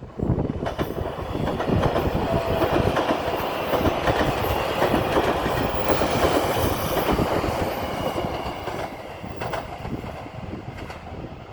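Sonic limited express electric train passing at speed, its wheels clattering rhythmically over the rail joints. The sound starts abruptly, is loudest through the middle, then fades gradually as the train moves away.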